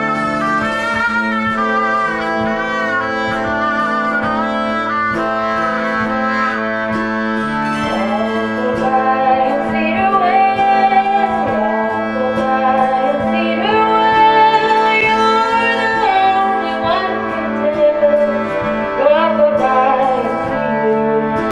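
Folk band instrumental passage led by a Stroh violin, a violin with a metal horn in place of a wooden body, whose nasal, brassy melody slides between notes with vibrato over a steady low drone. The melody grows busier about a third of the way in.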